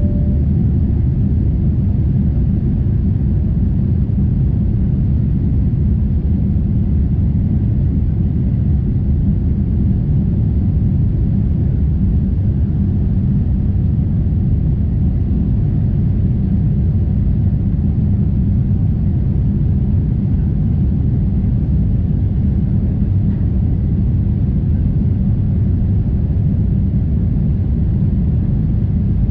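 Steady cabin noise of a Boeing 747-8 in flight, heard from a window seat: an even, low rumble of airflow and engines that does not change.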